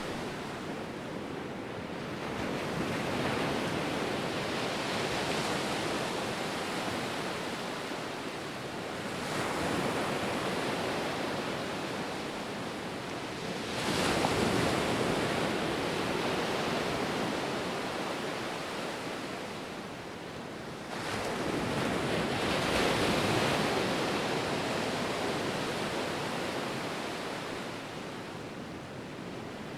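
Ocean surf: waves breaking and washing in, swelling and ebbing every five to seven seconds, with a sharper surge about 14 seconds in.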